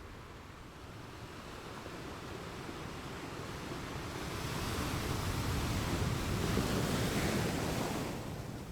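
Ocean waves washing onto a shore: a wave builds from about a third of the way in, peaks, and falls away near the end.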